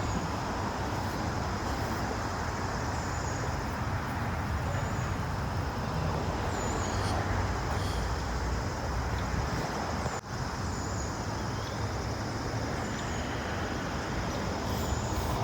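Steady outdoor background noise: a low rumble with a hiss above it, and a few faint, short, high chirps now and then.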